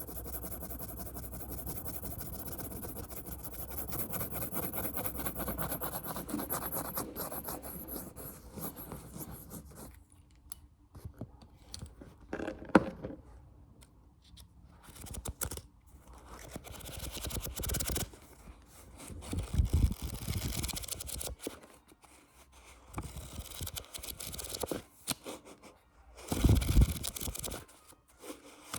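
Close-miked ASMR hand sounds: a rapid run of fast tapping and scratching for about the first ten seconds, then slower, scattered scratches, rustles and taps with a few sharp hits and dull thumps.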